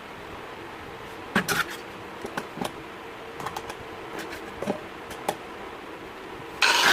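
A few light, sharp clicks and taps, spaced irregularly over a faint steady hiss. Guitar music starts suddenly near the end.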